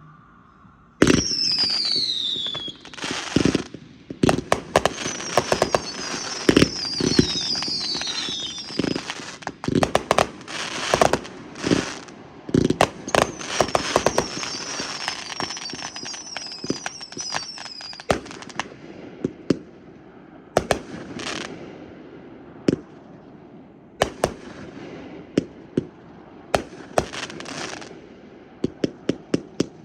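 Fireworks going off: sharp bangs in quick succession over crackling, with several high whistles falling in pitch during the first half. The bangs thin out after about twenty seconds, then come rapidly again near the end.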